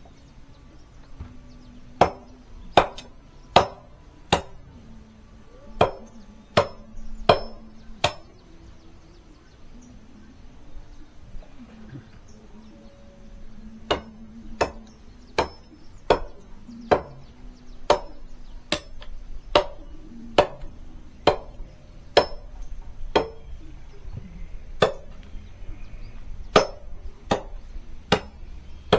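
An axe chopping into a wooden log, about one hard blow a second, with a pause of several seconds partway through before the chopping resumes.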